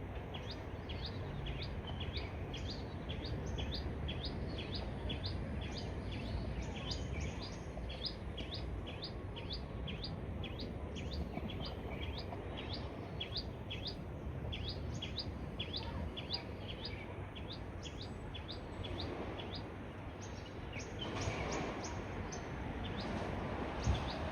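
A bird repeating a short, high call about twice a second, over a steady low background rumble. A broader rushing noise rises near the end.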